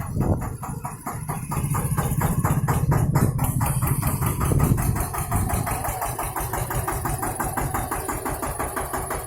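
Tractor engine running with a steady, rapid pulsing beat. It is heavier and louder for the first half and eases off about five seconds in.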